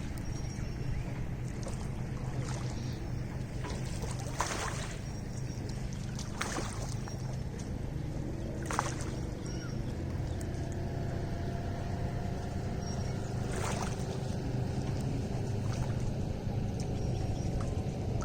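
Lake water lapping, with a few short sharp splashes over a steady low rumble.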